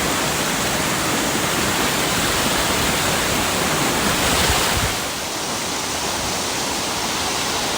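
Waterfall pouring, a steady rush of falling water, with no break.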